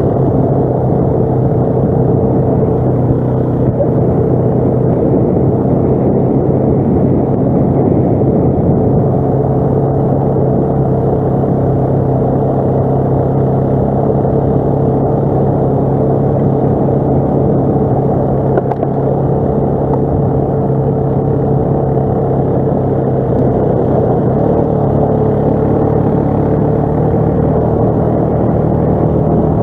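ATV engine running at a steady speed, with a constant pitch and no revving.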